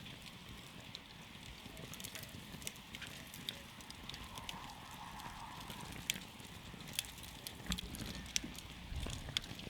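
Wood campfire burning, with irregular sharp crackles and pops over a steady soft hiss.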